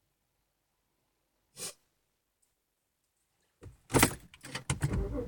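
A short faint noise, then about four seconds in a BMW 335i's turbocharged straight-six is cranked and catches, the starter's strokes giving way to a low rumble as it begins to run. It starts without screeching, though the engine is still misfiring on cylinder 6.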